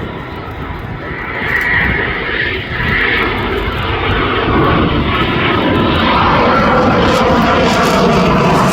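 Eurofighter Typhoon's twin jet engines, a loud steady roar that builds from about a second and a half in.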